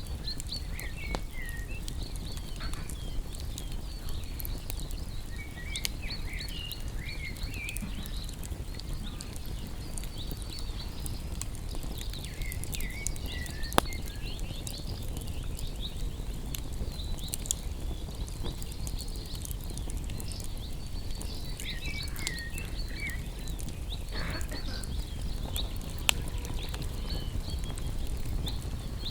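Wood campfire burning with a steady low rumble and scattered sharp crackles, a few louder pops standing out. Birds chirp in short bursts a few times in the background.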